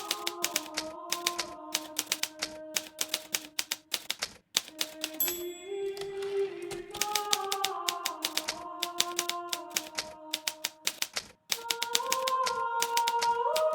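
Hermes Baby portable typewriter typing in quick runs of key strikes, pausing briefly twice, over soft background music of sustained notes that step slowly in pitch.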